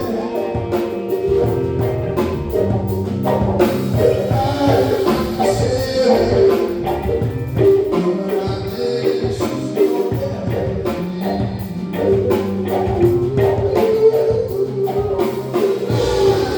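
Live band music with drums keeping a steady beat under pitched instruments.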